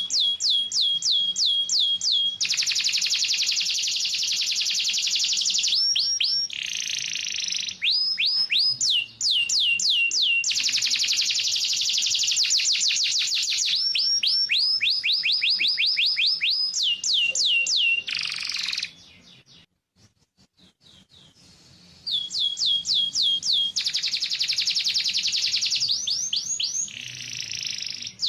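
Domestic canary singing. Runs of quick, high, falling whistled notes alternate with fast buzzy trills, and the song breaks off for about two seconds about two-thirds of the way through before starting again.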